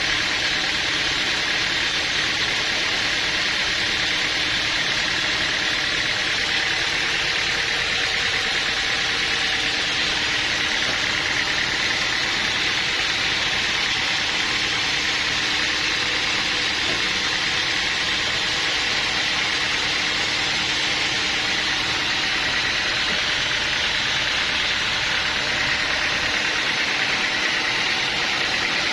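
Sawmill machinery running steadily: a continuous, even noise with a faint steady hum beneath it.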